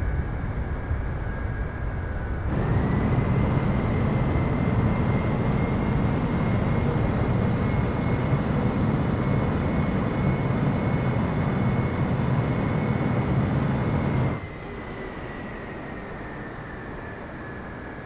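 Boeing 777-300ER's GE90 jet engines running, a steady high whine over a heavy rumble. The sound drops abruptly about fourteen seconds in, and the whine then slowly falls in pitch.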